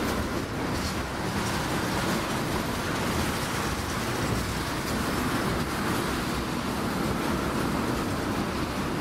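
Freight train rolling past, a steady noise of its cars' wheels on the rails.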